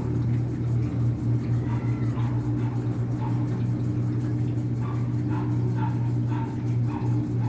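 A steady low hum of a running machine, with a dog giving short, repeated barks over it.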